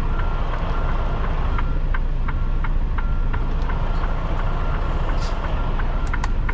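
Freightliner Cascadia semi-truck's diesel engine running low and steady while reversing, with a repeating electronic beep and sharp clicks about twice a second.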